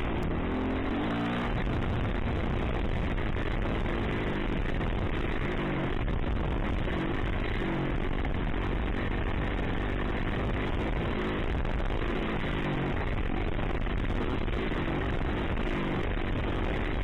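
Dirt bike engine being ridden hard, revving up and dropping back again and again, its pitch rising and falling several times.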